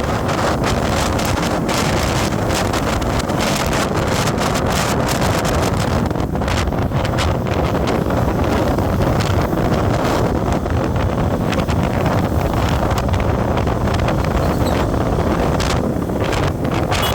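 Wind rushing over the microphone of a moving road vehicle, a steady loud rush with a low rumble and frequent crackles.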